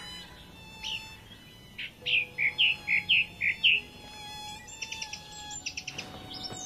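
Small birds chirping: a run of about seven sharp chirps, each dropping in pitch, about two seconds in, then a quick twittering series of ticks near the end.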